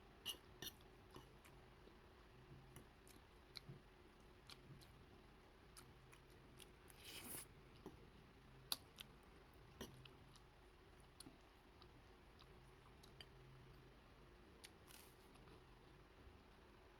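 Faint, scattered clicks and taps over near silence, with a short swishing noise about seven seconds in.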